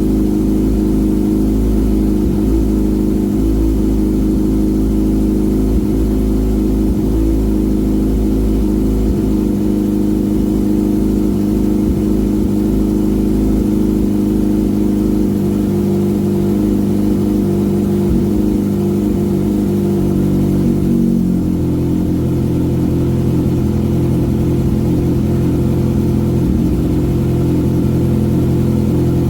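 Kawasaki ZX-6R 636's inline-four engine idling steadily through an M4 GP19 aftermarket exhaust after a cold start. About 21 seconds in the engine note shifts abruptly lower and stays there.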